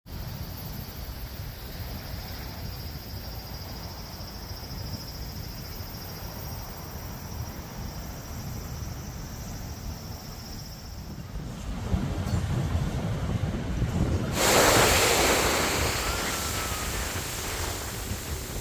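Sea waves on a beach: a low steady rumble of surf, growing louder, then a wave breaks about fourteen seconds in with a loud hissing wash that slowly dies down. Wind rumbles on the phone's microphone.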